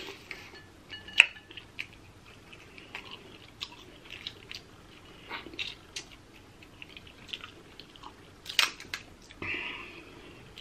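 A person chewing and eating crab meat, with scattered sharp clicks and cracks; the loudest crack comes about a second in and another near the end.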